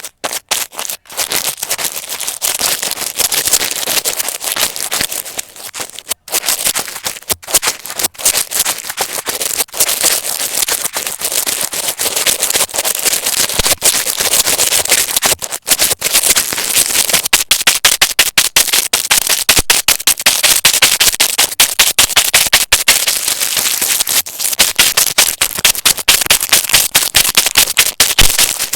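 Dense, rapid crackling clicks from a needle being poked again and again into a material.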